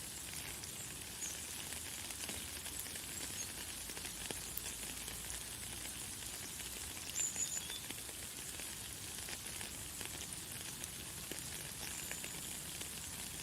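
Light, fine rain falling in a steady hiss with many small drop ticks. A few short, high bird chirps break through, the loudest a quick pair about seven seconds in.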